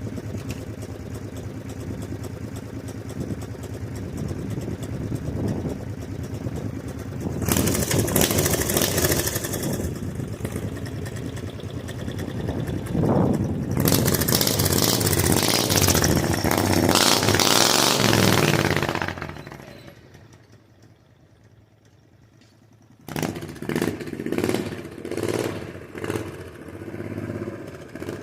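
18 hp V-twin minibike engine running as the bike is ridden, getting louder twice with revving and then fading away about twenty seconds in. After a few quiet seconds it comes back suddenly with an uneven, pulsing note. The engine is not running right: it has a misfire that the owner puts down to its coil packs.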